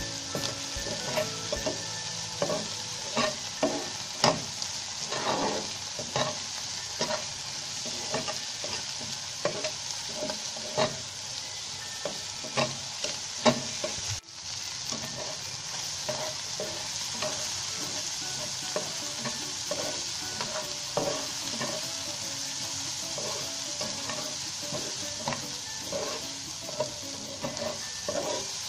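Prawns and sliced onions sizzling in hot oil in a frying pan, with a spatula scraping and knocking against the pan as they are stirred. The stirring strokes come thick and fast in the first half and more sparsely later, and the sound drops out for an instant about halfway.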